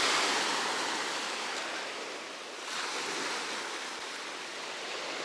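Sea surf washing onto a beach, loud at first, easing off, then a fresh wave coming in a little after halfway.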